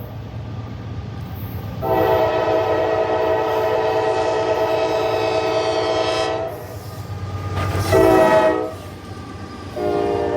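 Norfolk Southern freight locomotive's air horn sounding a chord: one long blast of about four and a half seconds, a short blast near 8 seconds, and another long blast starting near the end, over a steady low diesel rumble. The long-short-long run fits the end of the grade-crossing signal.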